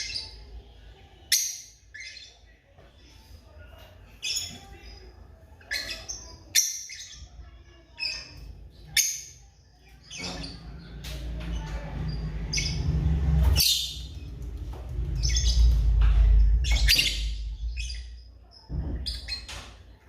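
African lovebirds giving short, high-pitched squawking calls again and again, about one every second or two. From about halfway through, a loud low rumble comes in under the calls and dies away near the end.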